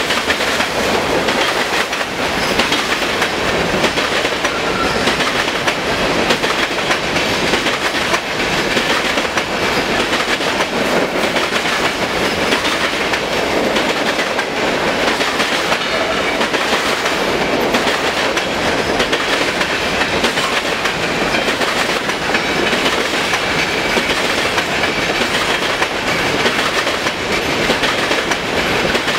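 Empty covered hopper cars of a freight train rolling past close by: a steady, loud rumble of steel wheels on rail, with clickety-clack as the wheels cross the rail joints.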